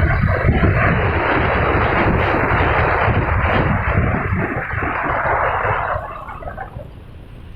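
Wind rushing over the microphone on a moving motorcycle, with a low rumble underneath; it dies down about six seconds in.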